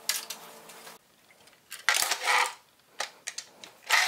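Small hard parts clinking and clattering as they are handled and set down on a router table, in a few separate short bursts.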